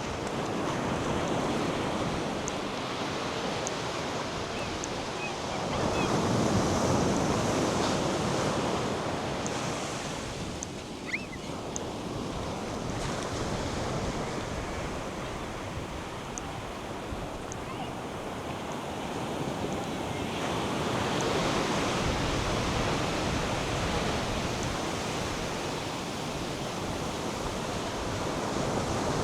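North Sea surf breaking on a sandy beach, a steady wash that swells about a quarter of the way in and again about two-thirds through, with wind buffeting the microphone. A brief click and a short high chirp come in a lull near the middle.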